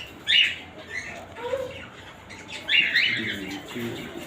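Cockatiels calling in short, sharp, high calls: a loud one just after the start, two close together about three seconds in, and fainter chirps between.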